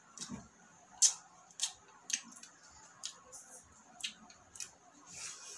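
Close-up mukbang eating sounds: chewing and lip-smacking on chicken adobo and rice, heard as an irregular string of sharp clicks, the loudest about a second in.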